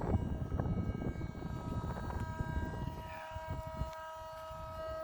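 Wind buffeting the microphone with an uneven low rumble. About two seconds in, a steady whine of a few held tones joins it from machinery on the ramp.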